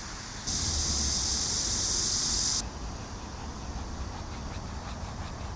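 Outdoor ambience: a steady high-pitched hiss starts abruptly about half a second in and cuts off about two and a half seconds in, over a low rumble. Faint, fairly regular high ticks follow.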